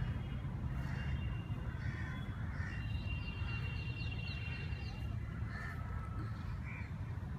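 Birds calling in short, repeated calls over a steady low rumble, with a thin high steady tone for the first five seconds or so.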